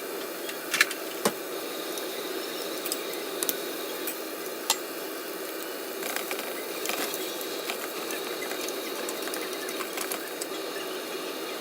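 Kitchen cooking sounds: scattered light clicks and knocks of utensils over a steady hiss.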